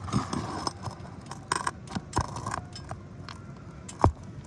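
A metal roof snake scraping and clinking under asphalt shingles as it pries out a roofing nail, with a sharp knock about four seconds in.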